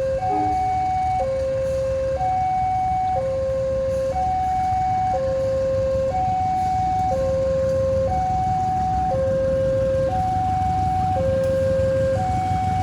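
Electronic two-tone warning alarm, steadily alternating a higher and a lower tone about a second each, over a heavy low rumble of a train or traffic.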